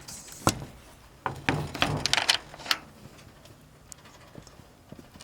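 Handling noises: a sharp click about half a second in, then a run of light clicks, knocks and rustles, then a few faint ticks.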